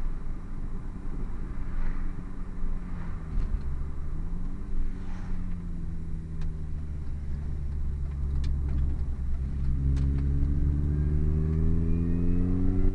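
MINI with a Hayward & Scott aftermarket exhaust running with a low, steady exhaust drone. In the last few seconds the engine note rises as the car accelerates.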